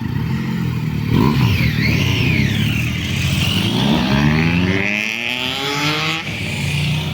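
Motorcycle engine accelerating hard, its revs climbing steadily for a few seconds and then dropping sharply about six seconds in as the throttle is closed or a gear is changed.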